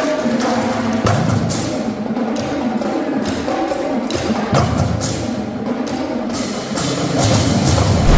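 Marching drumline playing percussion: a dense run of rapid drum and stick hits with low bass-drum thumps.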